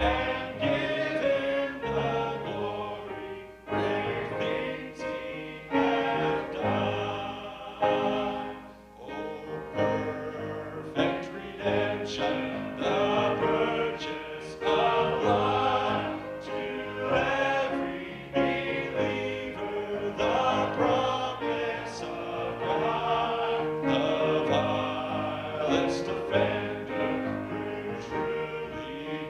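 Vocal group singing a sacred song in harmony, with instrumental accompaniment.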